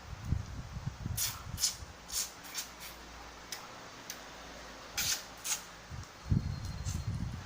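Close-up eating sounds of a mukbang of sapsap and bisugo fish: irregular chewing and mouth noises, with a few sharp clicks, some of them in quick pairs.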